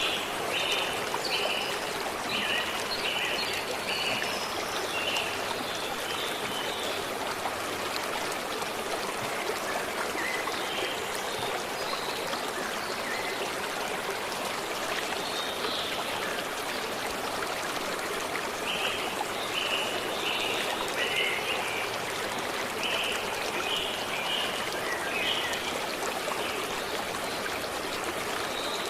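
Forest stream flowing steadily. Over it a bird calls in runs of short repeated notes, at the start and again about two-thirds of the way through.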